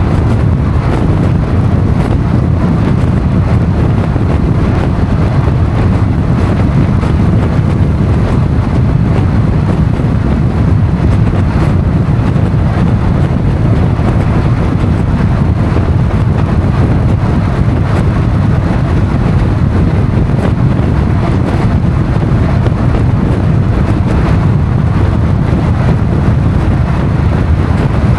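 Motorcycle at road speed: steady, loud wind rush buffeting the microphone, with the bike's running noise underneath.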